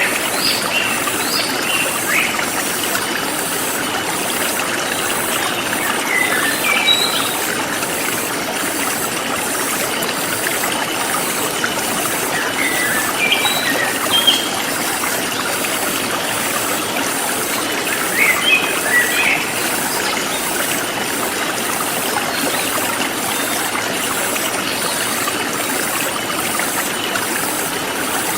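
Forest stream flowing steadily, with small birds giving short bursts of chirps every few seconds and a faint, even high pulsing of insects.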